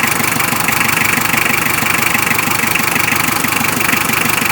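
HM Contessa's 2000 cc Isuzu diesel engine idling steadily with an even, rapid diesel clatter.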